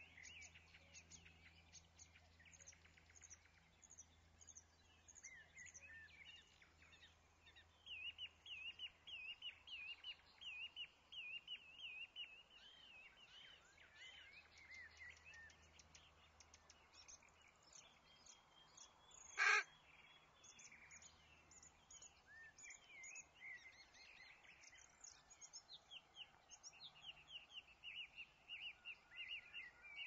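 Faint chirping and twittering of small birds, with a dense run of quick repeated chirps about a quarter of the way in. One brief, much louder sound stands out about two-thirds of the way through.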